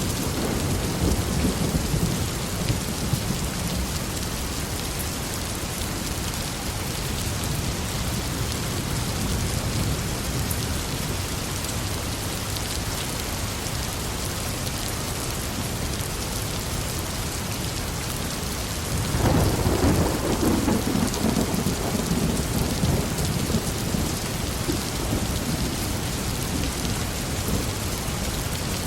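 Heavy, steady rain falling on a forest, with rolling thunder: one rumble fades out over the first few seconds, and a louder one breaks in suddenly about two-thirds of the way through, then dies away slowly.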